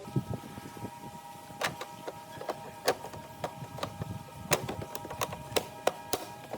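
Irregular sharp clicks and taps, several a second, over steady sustained background music tones.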